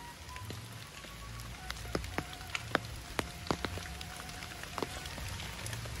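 Rain falling through the trees: a soft steady hiss with irregular single drops ticking sharply, several a second.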